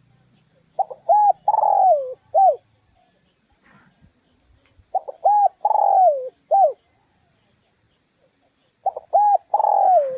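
Spotted dove (Streptopelia chinensis) cooing: three matching phrases about four seconds apart, each a few short coos, a longer note that falls in pitch, then a short closing coo. The last phrase is cut off at the end.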